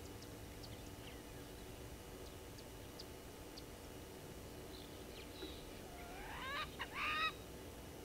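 A bird calling, loudly, about three-quarters of the way in: a rising note with strong overtones, then two short sharp notes, over faint high chips and ticks from other small birds or insects.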